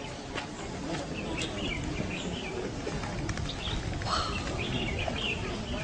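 Small birds chirping in short, repeated calls, over a steady low background rumble with a few faint clicks.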